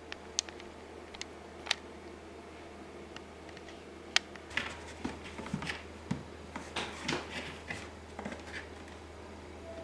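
A cat playing with a toy: a few sharp light clicks and taps, then a flurry of scratchy rustling and tapping from about halfway through.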